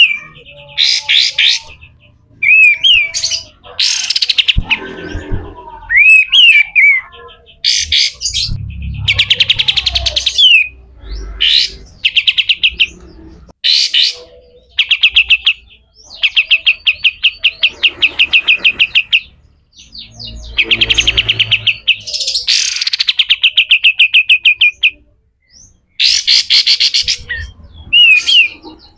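A kapas tembak (katem) songbird singing harsh 'besetan kasar' phrases: fast rattling runs of many short, rapid notes, alternating with brief sharp chirps and upward-curving whistled notes, with short pauses between phrases.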